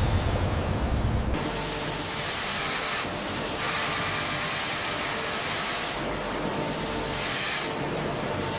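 Steady, loud hissing spray, changing several times in short cuts, after a low machine rumble that stops about a second in.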